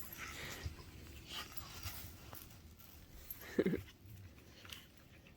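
A dog gives one short whine about three and a half seconds in, over faint scattered scuffing.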